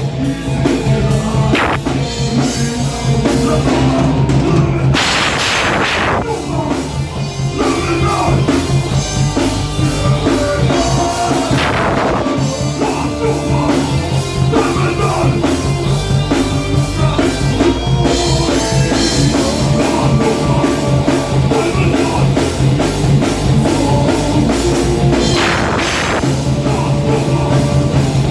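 Heavy metal band playing live: drum kit and distorted guitars over a fast, repeated low riff, with cymbal crashes at about 5, 12 and 26 seconds in.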